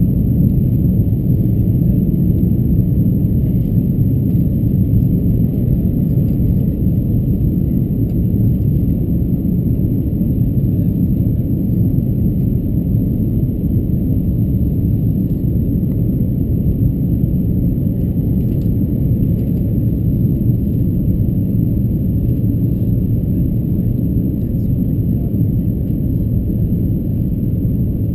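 Steady low rumble of airflow and engine noise in the cabin of an Airbus A330-223 airliner.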